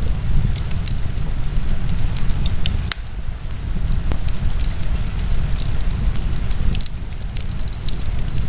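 Wood fire burning in a fireplace, crackling with many small sharp pops and snaps over a steady low rumble.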